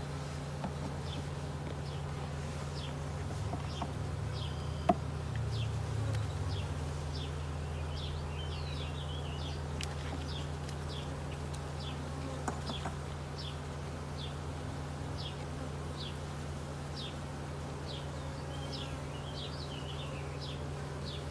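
Honey bees buzzing steadily around an open hive, a continuous low hum of many wings. A single sharp click about five seconds in.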